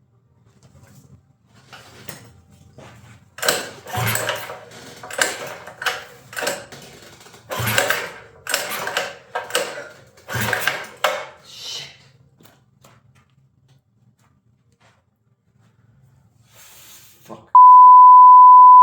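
A run of sudden clattering, scraping noises with a few heavy thumps, then a loud steady beep tone near the end: a censor bleep over a swear word.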